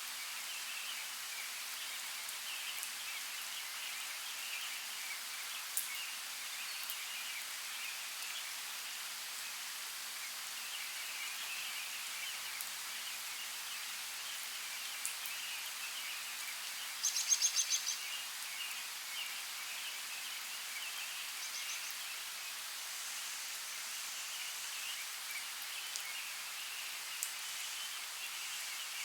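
Forest ambience: a steady high hiss with a busy background chatter of distant birds. A little past the middle, a bird gives one short rapid trill, and another brief call follows a few seconds later, with a few faint clicks scattered through.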